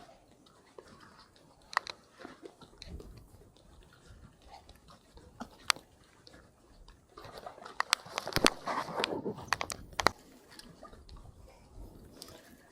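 Crunching and scattered clicks of footsteps and bicycle tyres on twigs and dry ground, growing denser and louder about seven seconds in.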